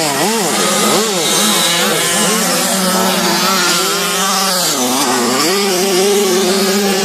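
Motocross bike engines revving, the pitch rising and falling quickly several times in the first couple of seconds, then holding higher and steadier. Another engine runs at a constant pitch underneath.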